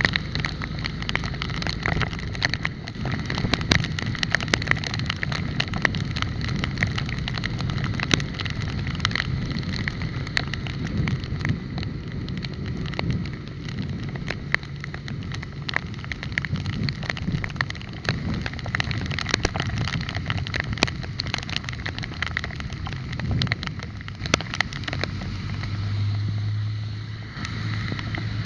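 Ride noise from a moving bicycle: a steady road rumble with frequent small rattles and knocks and some wind on the microphone. A low steady hum comes in near the end.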